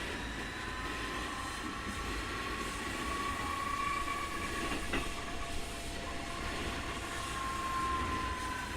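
Keikyu 2000 series EMU with Mitsubishi field-chopper control, heard running from inside the car. A strong high whine, the so-called "jet sound" that marks this as an abnormal-noise car, rides over the wheel and rail rumble. The whine's pitch rises and dips slightly, and there is a single click about five seconds in.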